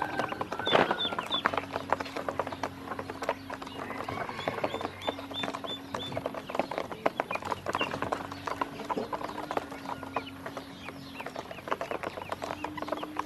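Ducklings pecking at feed in a rapid, irregular clicking, with high downward-sliding peeps, a run of about five of them near the middle. A low hum comes and goes underneath.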